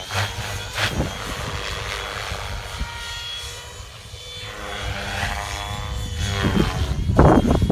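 Gaui X7 electric RC helicopter flying, its rotor and motor whine gliding up and down in pitch as it manoeuvres, with wind buffeting the microphone. The sound grows louder and rougher near the end.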